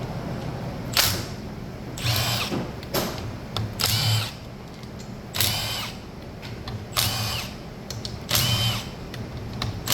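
Cordless impact wrench run in a series of short bursts, about one a second, each a brief whirring whine, loosening nuts on the dirt bike engine's sprocket and crank end during teardown.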